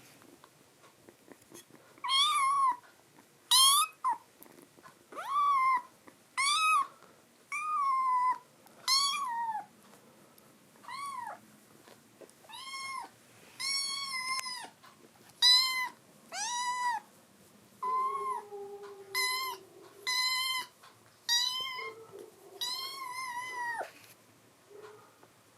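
A kitten meowing over and over in high-pitched cries, roughly one a second, starting about two seconds in and going on until near the end.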